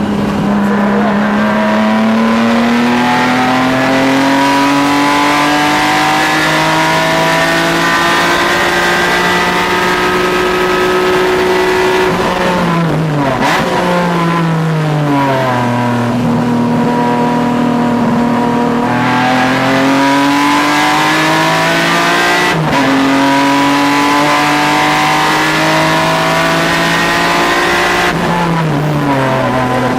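Car engine on a race track, held at high revs and climbing slowly in pitch along the straights. It drops away twice under braking and downshifting, about halfway through and again near the end, then pulls hard again. There is a sharp break in the engine note about three quarters of the way through.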